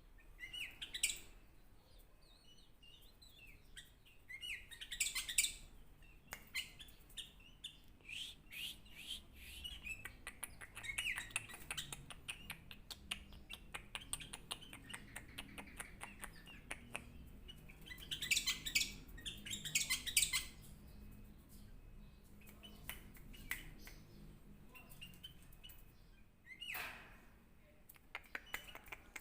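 Sooty-headed bulbul (kutilang) giving short chirping calls in scattered bursts, the loudest about five seconds in and again around eighteen to twenty seconds, with a fast run of small clicks in between.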